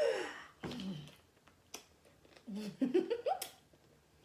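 A woman's short wordless vocal sounds, two breathy exclamations or laughs, the first at the start and the second around three seconds in, with a sharp small click near the end of the second.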